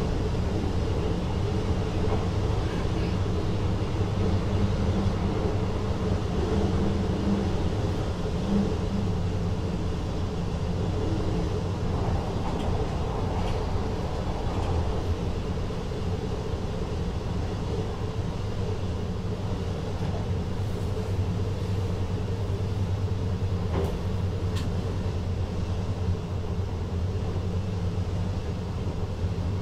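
VIRM double-deck electric train running along the track, heard from inside the driver's cab: a steady low rumble of wheels on rails, with an even hum underneath.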